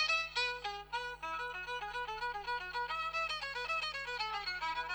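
Bowed violin playing a quick melody of short notes, louder for about the first second and softer for the rest.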